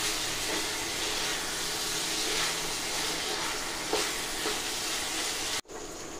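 Elephant foot yam pieces frying in oil in a pan, a steady sizzle with light scrapes from a wooden spatula stirring them. The sizzle stops abruptly near the end, leaving a faint steady high whine.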